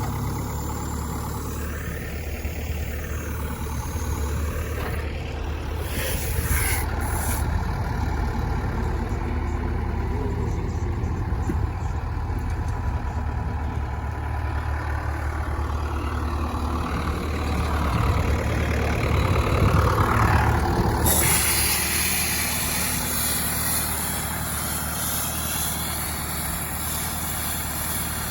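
Tractor engine running steadily, growing louder for a few seconds about two-thirds of the way through.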